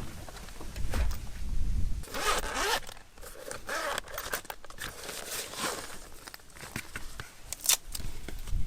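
Several short rasping strokes of something being handled close by, a few seconds apart, with a sharp scrape near the end and a low rumble in the first two seconds.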